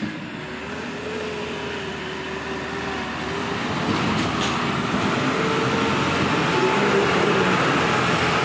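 Diesel engine of a light truck labouring up a steep, rough slope, growing steadily louder as it comes nearer.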